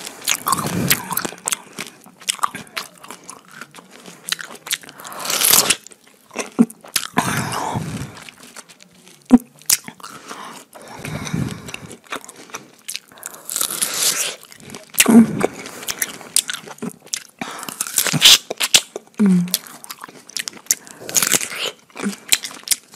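Fresh pineapple being bitten and chewed with open-mouthed lip-smacking, close to a lavalier microphone held at the mouth: irregular wet clicks and smacks, with louder juicy bursts every few seconds.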